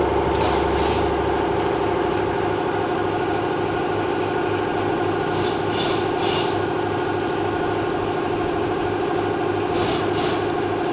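BMW X6's six-cylinder engine being cranked by the starter motor without firing, a steady rhythmic churn from the compression strokes. This is a compression test on cylinder 3 of an engine that will not start.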